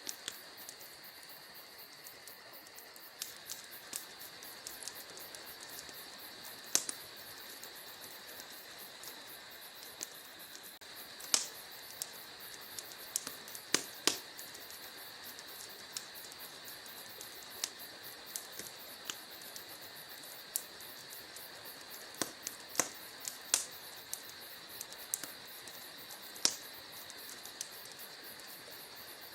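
Wood fire in a fireplace crackling, with irregular sharp pops and snaps over a steady high hiss; the loudest pops come in small clusters about a third and about four-fifths of the way through.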